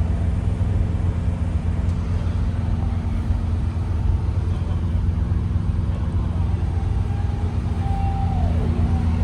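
Heavy truck engine running steadily, a low rumble. Near the end a short tone slides downward, and then the sound cuts off suddenly.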